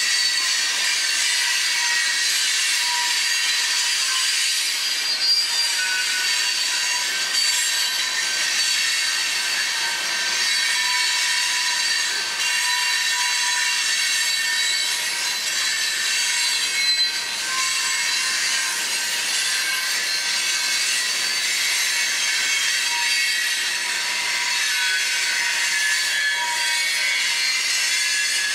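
Freight cars of a long manifest train rolling steadily past, steel wheels on rail, with a continuous high-pitched squeal from the wheels.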